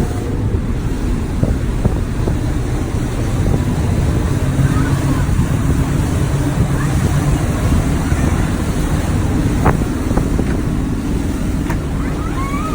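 Steady low rumble of a motorboat's engine running, mixed with wind buffeting the microphone and the wash of water.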